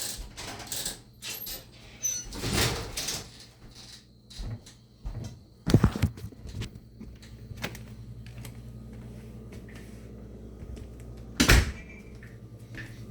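Unexplained irregular bumps and scrapes heard through a window, with two sharp knocks, one about six seconds in and one near the end, over a low steady hum.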